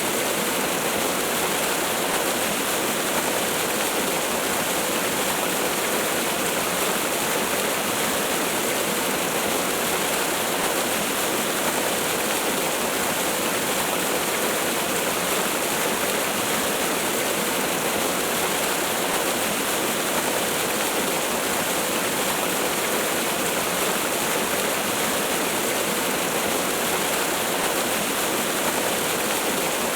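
Waterfall: a steady, unbroken rush of falling water that never changes, with little deep rumble.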